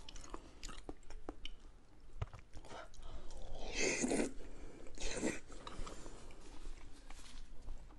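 Close-miked mouth sounds of biting and chewing a chunk of fatty pork: small scattered clicks, then two louder bites about four and five seconds in, followed by chewing.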